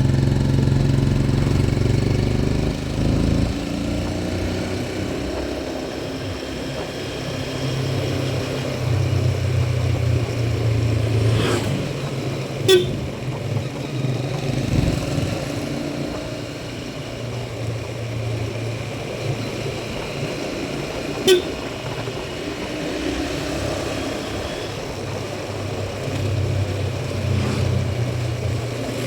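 Motorcycle engine running under way, its pitch rising and falling with the throttle over road and wind noise. Two short horn toots sound, about 13 seconds in and about 21 seconds in.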